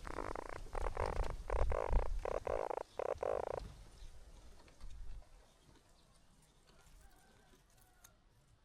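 Baby birds in the nest begging with raspy, pulsing calls: about seven short bursts in quick succession over the first three and a half seconds, then they stop.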